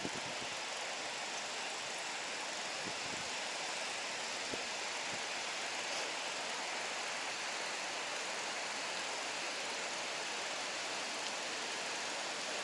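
Steady rushing of fast-flowing water, an even hiss with a few faint ticks.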